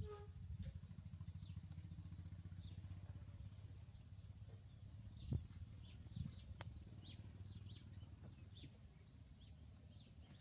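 Small birds chirping repeatedly in quick, short, falling chirps over a low, steady rumble, with a single knock about five seconds in.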